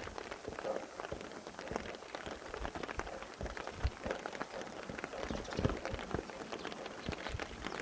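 Steady rain falling, with many irregular drops pattering onto a surface.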